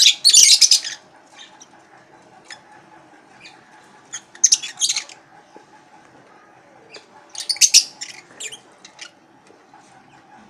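Lovebirds calling with short, high-pitched squawks and chirps. The calls come in three clusters: at the start, around four and a half seconds in, and around seven and a half seconds in, with scattered faint chirps between.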